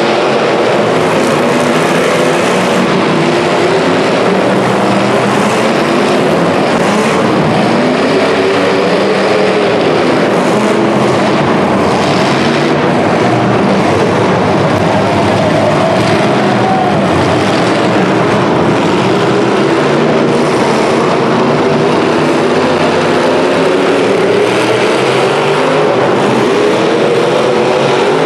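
Several demolition derby cars' engines running and revving together: a loud, continuous din of overlapping engine notes whose pitches rise and fall.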